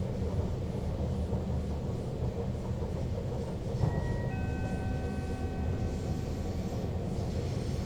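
Sprinter Lighttrain electric multiple unit running, heard from the driver's cab as a steady low rumble. About four seconds in, a steady tone of several notes sounds for about two seconds.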